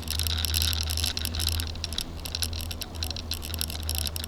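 Rapid, irregular clicking and rattling from a bicycle being ridden, over a low steady rumble.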